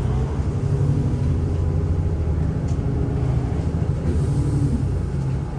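Inside a moving city bus: the engine's steady drone and road rumble.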